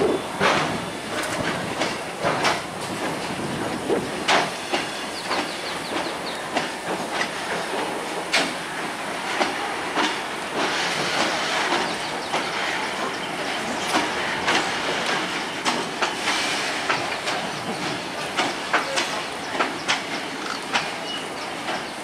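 Freight train wagons rolling past, their steel wheels clacking irregularly over the rail joints over a continuous rolling noise.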